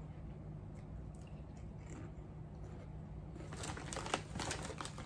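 Chewing Ruffles potato chips: faint crunching at first, then a run of louder crunches in the last second and a half. A low steady hum sits underneath.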